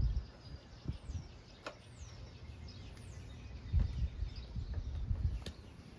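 Birds calling with short, high, downward-sliding chirps, over low rumbling handling or wind noise and a few sharp clicks.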